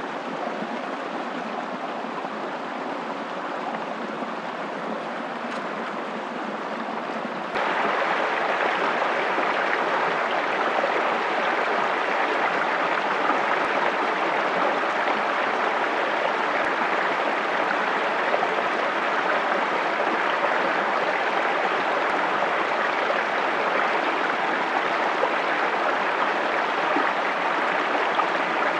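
Stream water flowing steadily, a continuous rushing and gurgling; about seven and a half seconds in it jumps suddenly louder and brighter and stays so.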